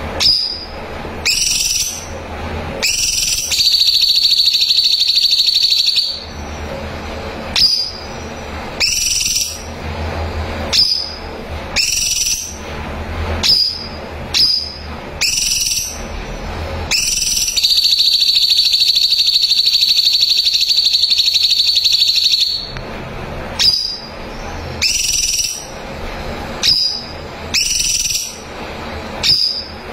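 Cucak cungkok singing: short upward-sweeping whistled notes about once a second. Twice it gives a long, high, rapid trill, the second about five seconds long.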